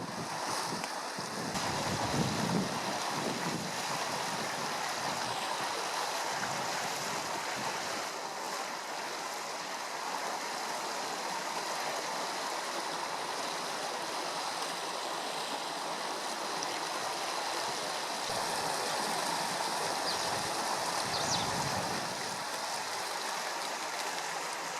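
Swollen river after rain, its water rushing with a steady, even noise.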